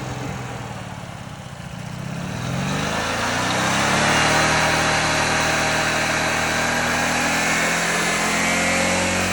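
Small engine of a home-built lawn mower running at low speed, then revving up over a couple of seconds and holding steady at high revs.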